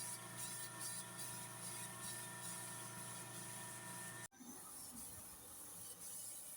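A small motor humming steadily with several steady tones and a light hiss, which cuts off abruptly about four seconds in and leaves a fainter hiss.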